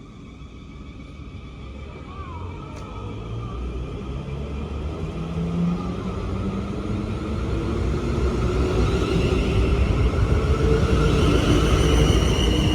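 A passenger train approaching through the station: a low rumble growing steadily louder, with a steady whine joining in during the second half.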